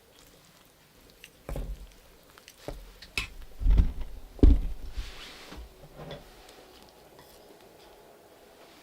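A series of irregular thumps and knocks, the loudest two about four seconds in, from things being handled and set down inside a small cabin.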